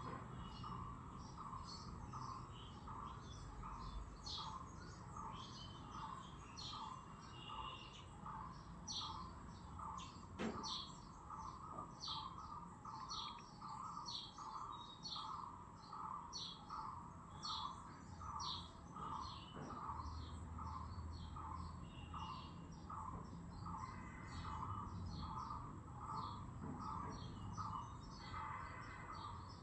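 Small birds chirping over and over in quick, high notes, with a steady pulsing call repeating about twice a second underneath.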